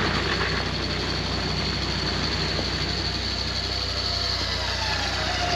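Vehicle engine running steadily at low revs during a winch recovery from a mud hole, with a faint steady high whine above it.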